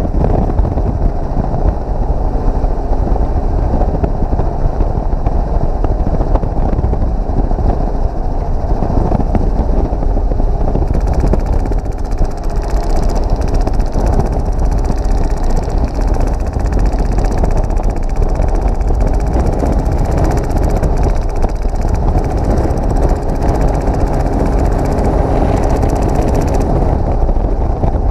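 Helicopter cabin noise at an open door: steady rotor and engine drone with wind on the microphone. From about eleven seconds in until near the end, an HPA-powered airsoft RPK fires long full-auto bursts, a fast rattle over the drone.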